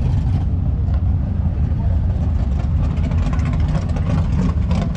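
Car engine running at idle with a steady low rumble.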